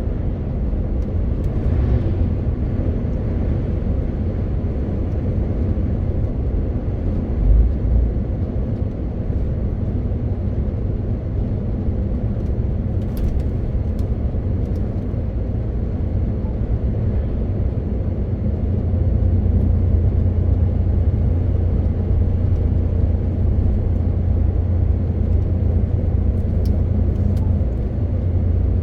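A MAN TGX 18.520 truck's six-cylinder diesel engine drones steadily under way, over tyre and road noise. There is a short low thump about seven seconds in, and the engine drone grows louder about two-thirds of the way through.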